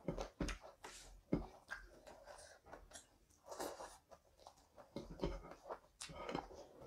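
Close-miked chewing and mouth smacks, with the soft squish of a hand mixing rice and curry on a plate; irregular short clicks a few times a second.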